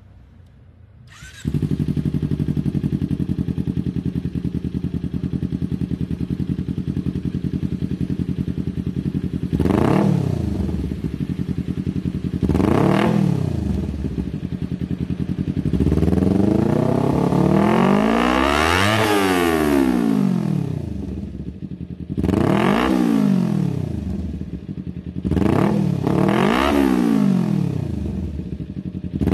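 Kawasaki Ninja FI motorcycle engine through a GP Tech aftermarket racing exhaust, started about a second in and idling, then revved: quick throttle blips with one longer rev that climbs and falls back in the middle, and more blips near the end.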